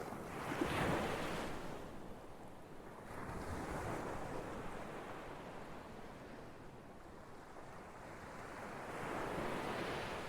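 Ocean waves breaking and washing on a shore, in three slow surges: a strong one about a second in, a weaker one around the middle, and another near the end.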